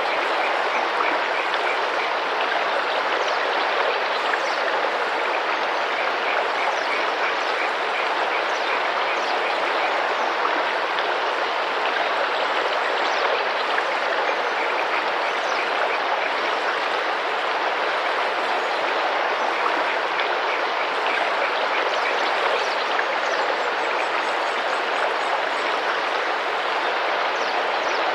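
Tropical rainforest river running and splashing gently, a steady rush of water, with faint short bird calls repeating high above it now and then.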